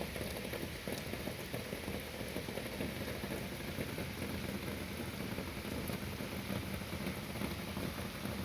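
Heavy rain falling steadily, an even hiss of rain with no let-up.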